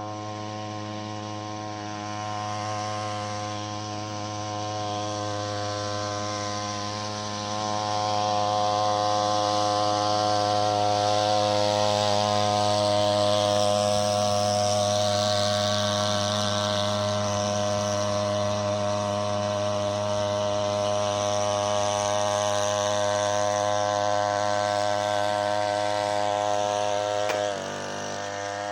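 A 3 hp outboard motor pushing a small boat runs steadily. It gets louder after several seconds, and about a second before the end its pitch drops and it quietens.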